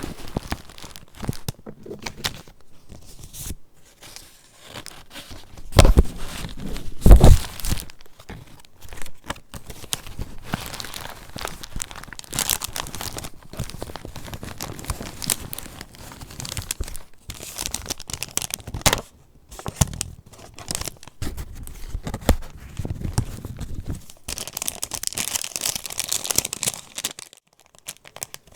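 Paper pages of a handmade junk journal being handled and turned, with crinkling and rustling of mixed papers. Two heavy thumps come about six and seven seconds in, and there is a longer unbroken rustle near the end.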